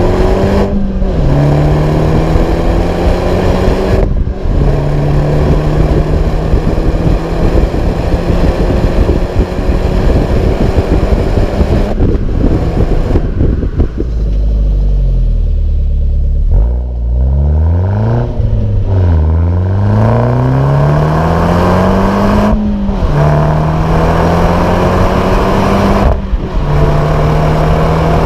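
Opel Corsa OPC's turbocharged 1.6-litre four-cylinder engine pulling hard through the gears: the revs climb again and again, each climb cut by a brief gap at the gear change. About halfway through, the revs drop low, dip and rise twice, then climb once more through the gears.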